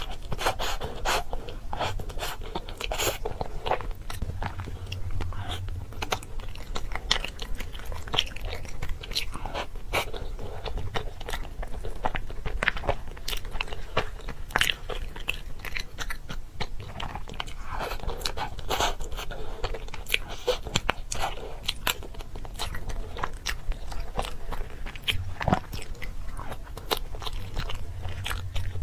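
Close-up crunchy chewing and biting: a person eating something crisp, with many irregular crunches throughout.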